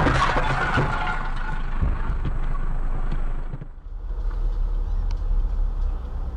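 Car tyres squealing, fading out over the first second and a half, then the steady low rumble of a car driving on the road, broken briefly near the middle.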